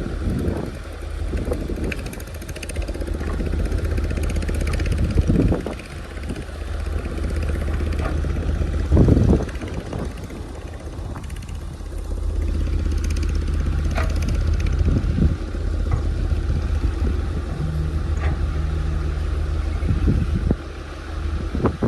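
Caterpillar excavator's diesel engine running steadily, with several brief louder surges, the strongest about five and nine seconds in.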